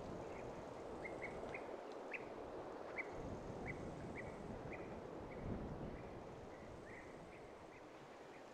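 A small bird chirping over and over in short, quick notes, about two or three a second, over a steady rush of wind in the trees that swells in the middle and eases off toward the end.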